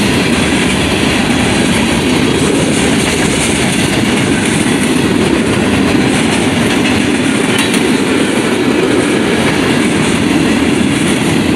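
Norfolk Southern freight train's cars rolling past at close range: a steady, loud rumble of steel wheels on the rails.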